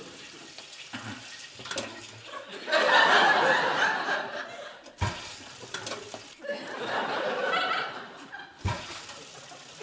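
Sitcom studio audience laughing, swelling in two waves, about three seconds in and again about seven seconds in.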